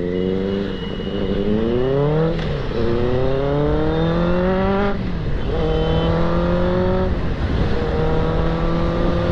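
Benelli TNT 600 inline-four engine accelerating through the gears: its pitch rises twice, dropping at each upshift, then holds steady at cruising speed. A low wind rumble runs underneath.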